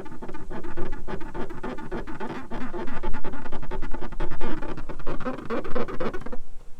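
Rapid, continuous squeaking of a cloth being rubbed hard over glossy truck paint to scrub off hardened pine tar loosened with WD-40. It stops abruptly near the end.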